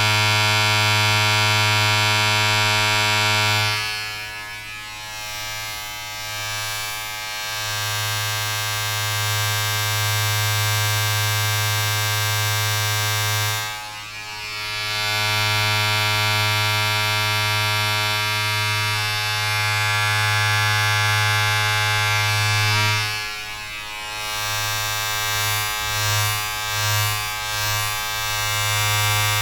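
Steady electric buzzing from a small mains-powered appliance motor, with a strong low hum and a bright, raspy edge. It dips in loudness briefly three times and wavers near the end.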